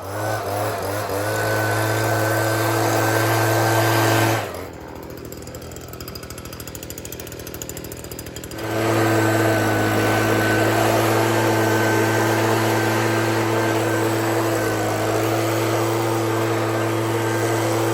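Chainsaw engine running at a steady speed with a constant drone. About four seconds in, it drops away to a quieter rough sound, then returns for the rest of the stretch.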